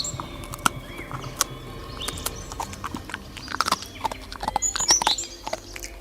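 African wild dogs and a buffalo in a struggle: irregular hoof knocks and thuds, with short high twittering chirps from the dogs at the start and again about five seconds in.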